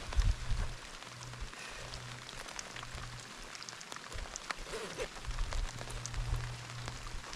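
Steady rain falling, with many individual drops ticking close by, over a low rumble that comes and goes.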